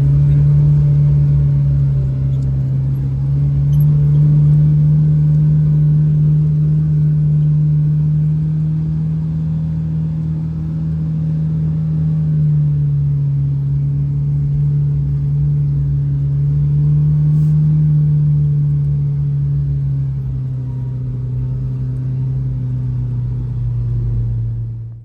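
Kawasaki six-seat side-by-side's engine droning steadily while driving, heard from inside its enclosed cab. The engine pitch rises and falls a little a few times, and the sound cuts off abruptly at the end.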